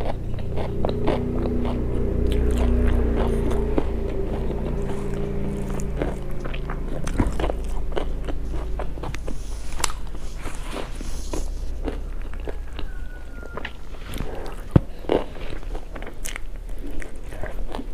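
A person chewing and biting food close to the microphone, with many small, irregular crunches and mouth clicks.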